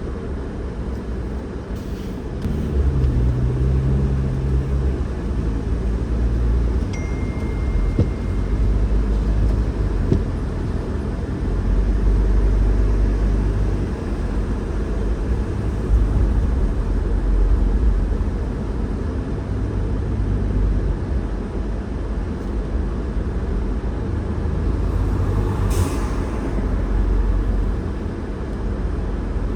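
Car on the move: a steady low road and engine rumble, with a brief high tone about seven seconds in.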